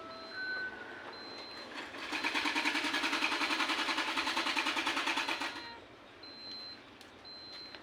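Two-stroke Yamaha Alfa motorcycle engine running through an aftermarket KYX exhaust. About two seconds in it comes up into a steady, evenly pulsing exhaust note for about three and a half seconds, then drops away. Faint short high beeps recur about once a second.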